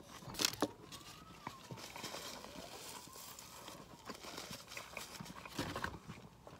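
Close-up chewing with wet mouth clicks and lip smacks, a mouthful of roast beef sandwich being eaten, with a faint tone slowly rising and falling behind.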